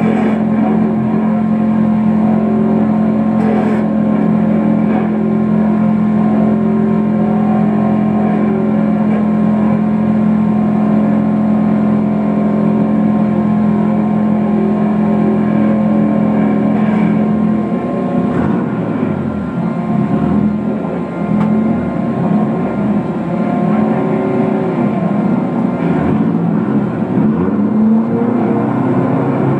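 A Mazda race car's engine heard from inside the caged cabin, idling on a steady note. About 18 seconds in, the steady note gives way to engine sound rising and falling in pitch.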